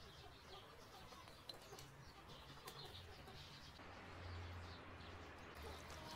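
Near silence: faint outdoor ambience with distant birds calling.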